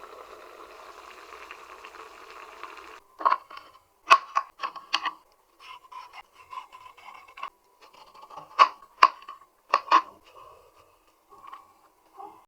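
Kitchen food-preparation sounds: a steady hiss for about the first three seconds, then irregular sharp knocks and scrapes.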